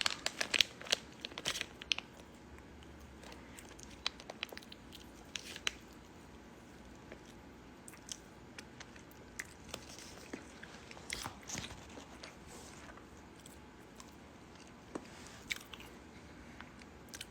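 Close chewing and biting on a squid snack: scattered short crunches and clicks, thickest in the first two seconds and sparser after.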